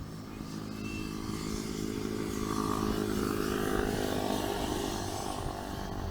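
A motor vehicle engine passing by, growing louder to a peak about four seconds in and then fading.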